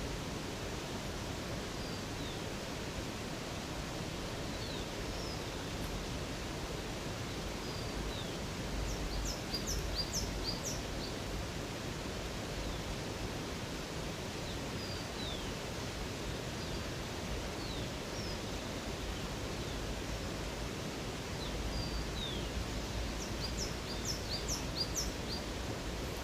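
Steady rush of flowing water with birds calling over it: scattered short high chirps, and twice a quick run of high notes, about ten seconds in and again near the end.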